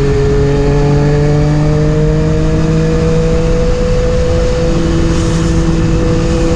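Yamaha MT-09's three-cylinder engine running under light throttle, its pitch rising slowly over the first few seconds and then holding steady, over a steady rush of noise.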